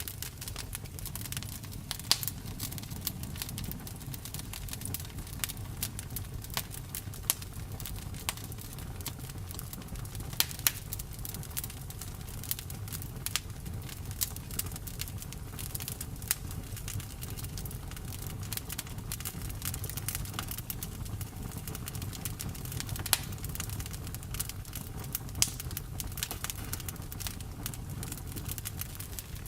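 Campfire burning: a steady low rumble of flames with irregular crackles and sharp pops from the burning wood, a few of them louder.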